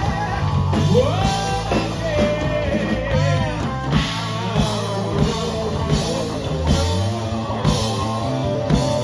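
Live rock band playing a song with a steady drum beat, bass, electric guitar and a singer's melody line.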